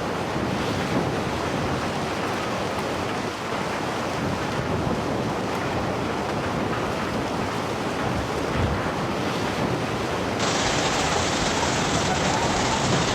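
Steady rushing noise of fast-flowing floodwater, with wind buffeting the microphone. About ten seconds in it switches abruptly to a brighter, slightly louder rush.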